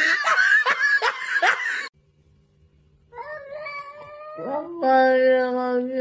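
A cat yowling: a rough, noisy yowl for the first two seconds, then after a short break a long, drawn-out yowl held at a steady pitch from about three seconds in.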